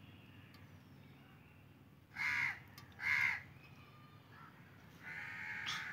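A bird calling loudly twice, about a second apart, starting about two seconds in, then a longer, quieter call near the end.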